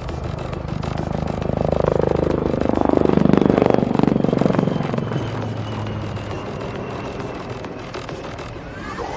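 HAL Prachand light combat helicopter, with twin turboshaft engines, flying past. Its rotor and engine sound swells to a peak about three and a half seconds in, then fades away.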